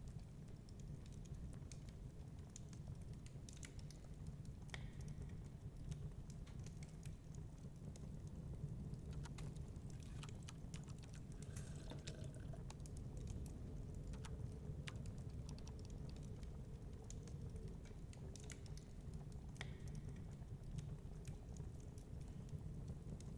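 Wood fire crackling in a fireplace: irregular small pops and snaps over a steady low rumble of storm wind.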